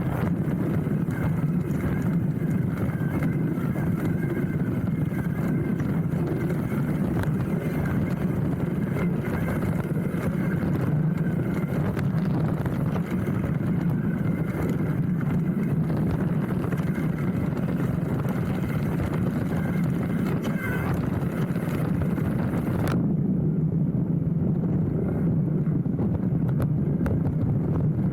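Hardtail mountain bike rolling fast down a dirt trail, heard through a handlebar-mounted camera: a steady rumble of knobby tyres on the ground with constant small rattles and knocks from the bike. The upper hiss cuts off suddenly near the end while the rumble carries on.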